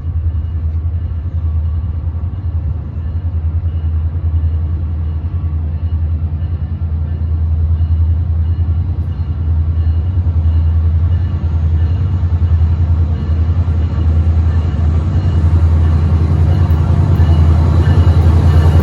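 Train running: a steady low engine hum and rumble that slowly grows louder.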